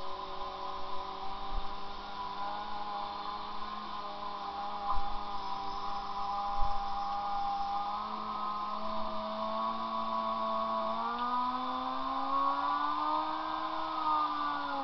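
Motorcycle engine held at high steady revs, its pitch creeping up over the last several seconds and then dropping as the throttle is eased off near the end.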